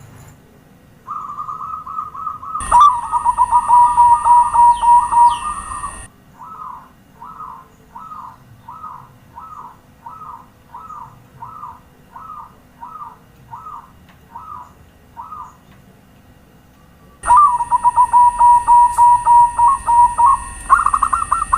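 Zebra dove (perkutut) cooing. A fast run of staccato coos starts about a second in and is loudest for a few seconds. Then comes a slower series of about a dozen separate coos, and another loud fast run near the end.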